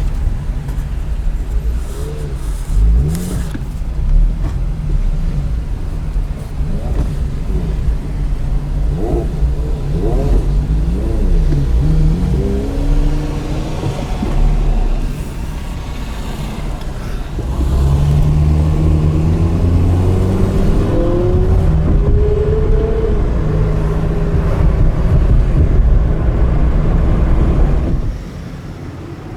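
Porsche Carrera GT's V10 engine through an FVD aftermarket exhaust, revving and accelerating in repeated rising sweeps of pitch. The sound drops away sharply near the end as the car moves off.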